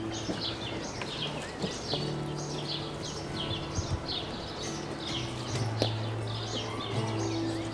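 Birds chirping steadily, many quick high calls that each drop in pitch, several a second, over long held low notes.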